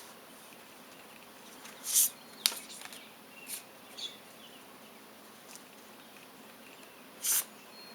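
Oracle cards being handled in a short pause: a few brief swishes of cards sliding, about 2 seconds in and again near the end, with a sharp click about half a second after the first swish.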